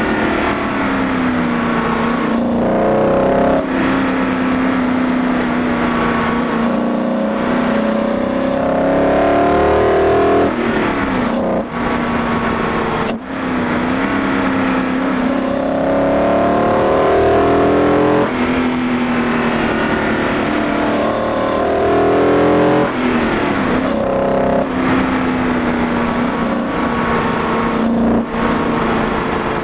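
BMW M60 V8 engine in an E30, heard at its air intake, accelerating through the gears: the revs climb and drop again and again, with short breaks at the gear changes.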